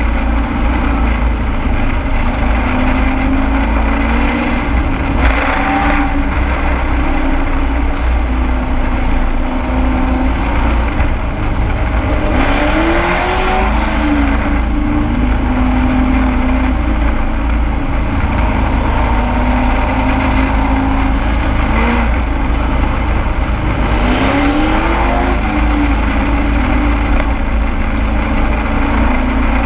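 Race truck engine heard from inside the cab at racing speed, held at high revs, dropping briefly and then revving back up twice, as when lifting for a turn and accelerating out of it.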